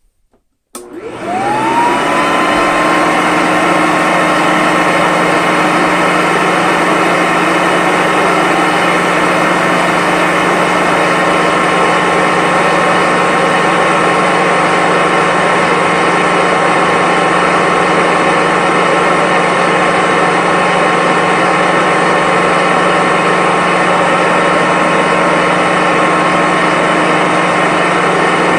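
1995 Hoover Commercial C1125 upright vacuum cleaner switched on a little under a second in. Its 5-amp motor's whine climbs quickly as it spins up, then it runs at a steady pitch.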